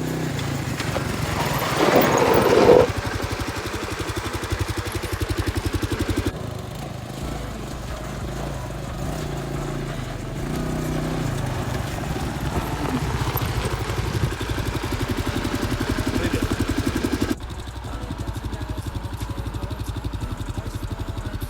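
Quad bike (ATV) engine running with a steady, rapid drone. The sound changes abruptly twice, about 6 and 17 seconds in.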